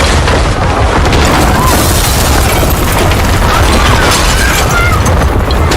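Loud, continuous deep rumbling with crashing noise, the sound of an earthquake shaking and collapsing buildings.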